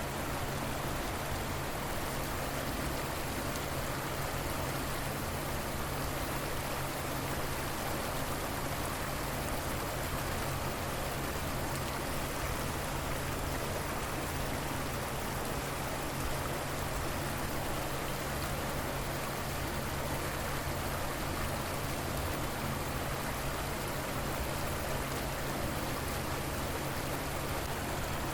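River water flowing steadily over its bed, a continuous even rushing with no breaks.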